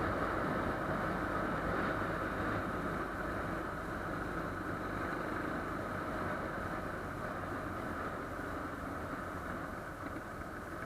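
Motorcycle engine running and wind rushing past while riding along a road, easing off slowly as the bike slows.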